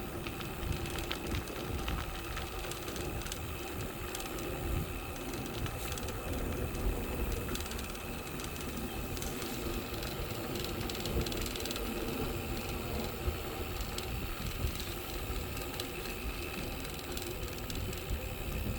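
Bicycle coasting: the rear freewheel ratchet ticks over a steady rumble of tyres and wind.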